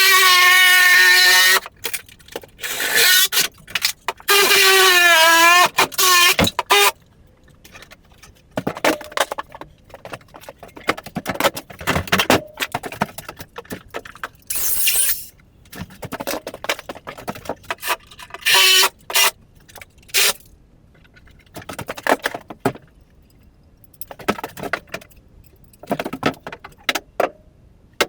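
Wood-frame floor being pried apart: two loud squeals of nails pulling out of wood in the first six seconds, the second wavering in pitch, then scattered knocks and metallic clatters from the pry bar and loose boards.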